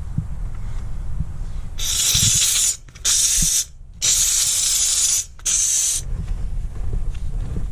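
Dupray Neat canister steam cleaner blasting steam from its nozzle in four short bursts, one after another, each starting and stopping sharply as the trigger is pulled and released.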